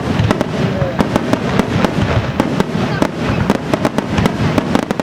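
Aerial fireworks bursting in quick succession: sharp bangs several times a second over a continuous low rumble of echoing explosions.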